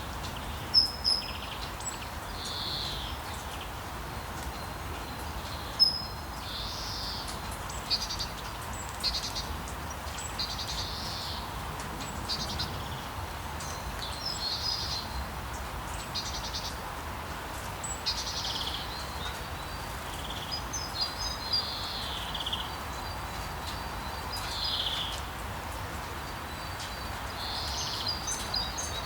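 Steady hiss of falling rain, with small birds chirping and calling in short phrases every second or two over it.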